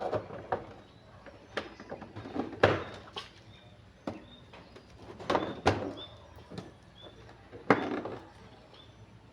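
Irregular knocks and clicks of hard objects being handled and set down, the loudest about two and a half seconds in and again near the end.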